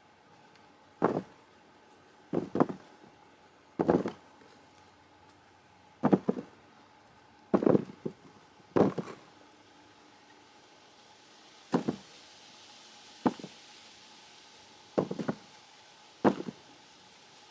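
Freshly dug potatoes being counted out by hand, set down or tossed one at a time onto a pile, each landing with a short knock. About ten knocks come at uneven intervals of one to two seconds.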